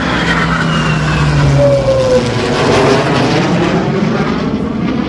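Airplane flying past at an air show: a loud, steady engine roar with tones that slowly fall in pitch as it goes by.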